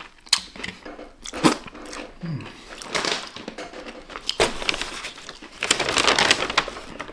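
Close-up crunching and chewing of crispy fried chicken, with sharp crackly bites. A paper takeout bag rustles and crinkles as it is handled in the second half.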